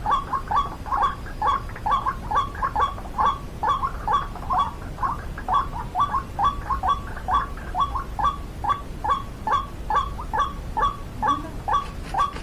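White-breasted waterhen calling: a fast, monotonous run of short, sharp notes, about three a second, kept up without a break.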